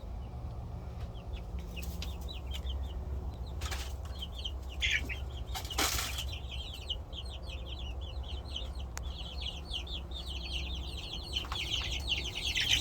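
Young chickens peeping and cheeping in quick short calls that grow busier toward the end, with a couple of brief wing flaps and a steady low rumble underneath.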